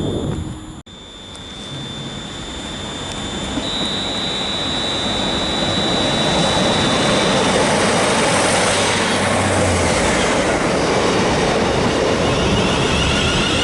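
A train approaching and running past, growing louder over the first few seconds and then holding steady, with a high steady whine that fades out about seven seconds in.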